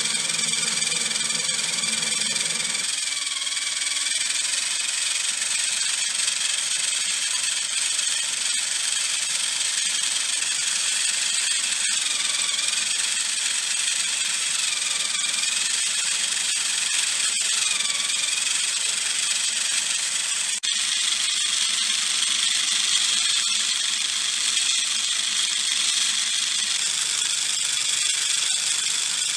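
Small motor running a homemade PVC model gearbox, with a steady high whine whose pitch wavers slightly, and a single click about twenty seconds in.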